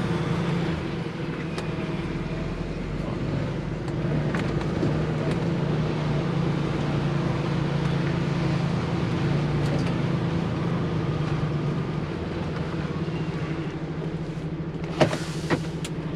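HGV lorry's diesel engine running steadily, heard from inside the cab while the truck manoeuvres, with two sharp clicks near the end.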